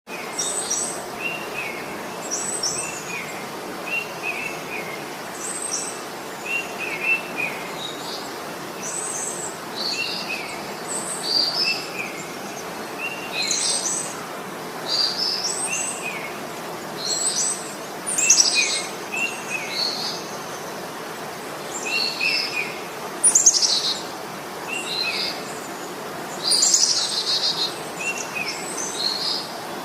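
Several birds chirping and calling in short repeated phrases, a few notes every second or two, some higher and some lower, over a steady background hiss.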